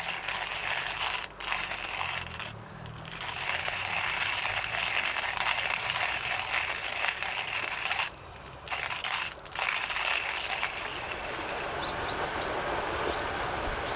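Food sizzling in a hot pan: a dense crackling hiss, briefly cut off a few times.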